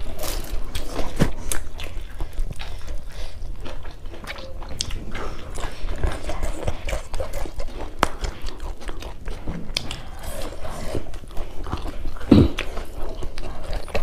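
Close-miked chewing and mouth smacking of people eating beef innards curry and rice by hand, with many short wet clicks. One louder low thump comes near the end.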